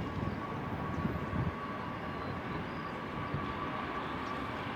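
Jet airliner engines running at a distance, a steady whine over a noisy haze, with an uneven low rumble that eases about a second and a half in.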